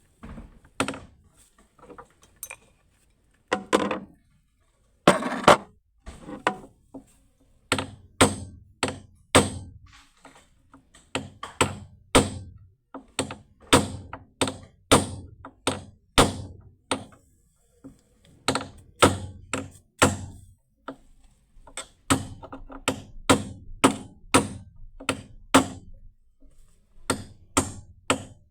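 Hammer blows on metal during removal and replacement of an aircraft bracket. The strikes are sharp and separate, a few at first, then in runs of about two a second, with two short pauses.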